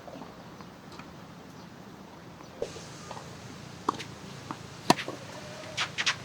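Scattered sharp knocks and taps of tennis play, irregular and busier in the second half, over a steady background rush.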